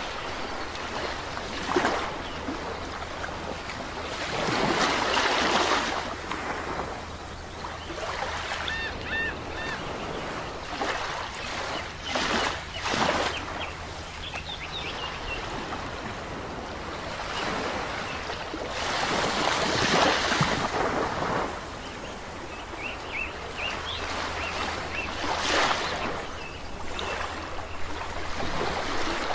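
Sea waves washing onto a shore in repeated surges, with a few faint, high bird chirps about a third of the way in and again near the end.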